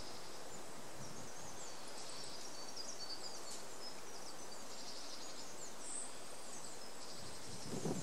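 Small birds twittering, many short high chirps over a steady outdoor hiss, with a brief rustle near the end.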